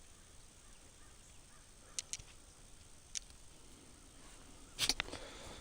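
Low background noise with a few faint clicks, then a louder brief knock or rattle shortly before the end.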